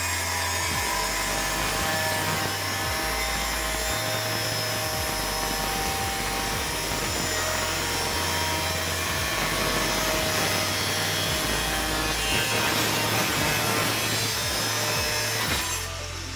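Angle grinder with a cutting disc slicing through aluminium: a steady grinding hiss with a few held tones in it, which stops abruptly near the end.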